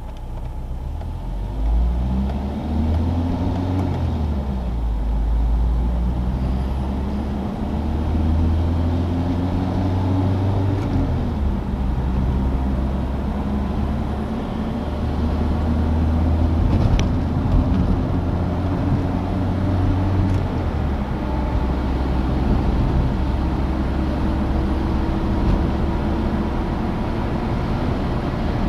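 Citroën DS four-cylinder engine pulling through the gears on the road: its pitch climbs and drops back at three gear changes, then holds a steady cruise. A low rumble of road and wind noise runs underneath.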